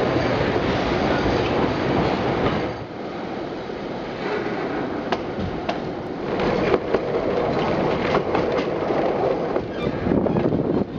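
Passenger train running on rails: a steady rumble of carriage and wheel noise, dropping a little about three seconds in, with scattered sharp clacks of the wheels over the track later on.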